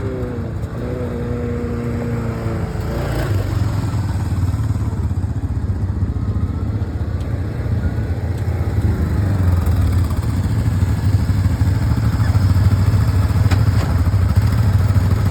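Off-road vehicle engine running steadily under way, with a strong low hum that slowly grows louder.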